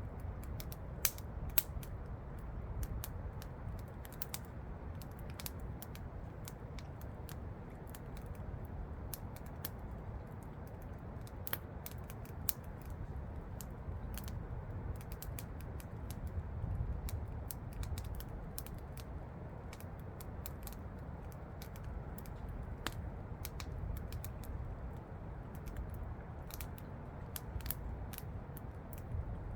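Campfire crackling, with irregular sharp pops and snaps, over a steady low rumble.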